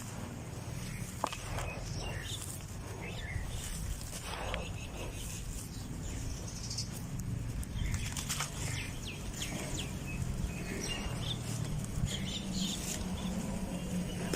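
Dry, dusty red dirt crumbling and crunching: a steady run of small irregular crackles over a low steady hum.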